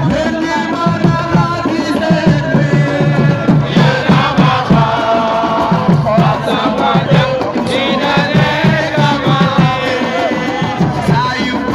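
Drumming with singing and chanting voices, a steady beat of low drum strokes under group song.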